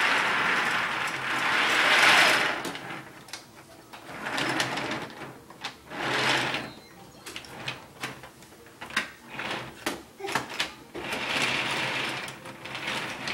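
Toy train set running along its track: a whirring, rattling motion in stretches, broken by many sharp clicks and clacks.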